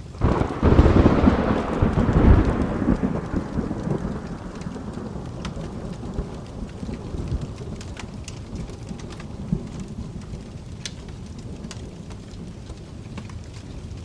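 A thunderclap breaks just after the start and rolls off in a long rumble that fades over about four seconds, over steady rain. Scattered sharp pops of a crackling wood fire sound through the rain later on.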